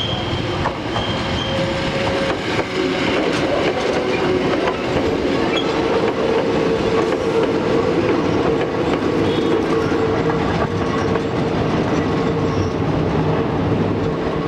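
Hakone Tozan Railway electric train pulling away and passing close by as it starts up the steep grade, with a loud, steady running noise and hum. There is a brief high wheel squeal about a second in.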